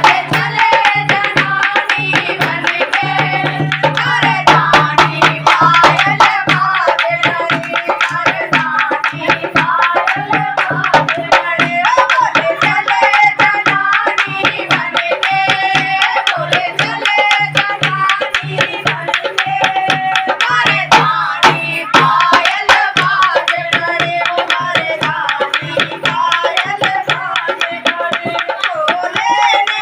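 Hindu devotional bhajan music: hand drums playing a fast, continuous rhythm under a melody line and a steady low drone.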